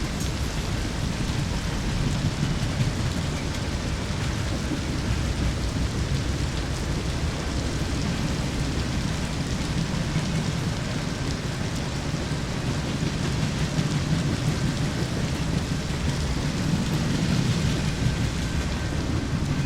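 Steady, heavy rain with a low rumble of thunder that swells and eases several times.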